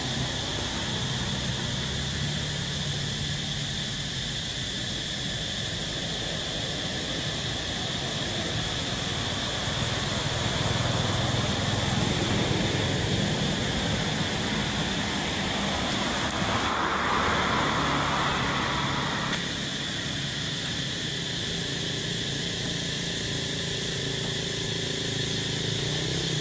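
A vehicle engine idling steadily under a continuous high-pitched drone, with a louder rushing noise swelling through the middle and dropping away suddenly about three quarters of the way through.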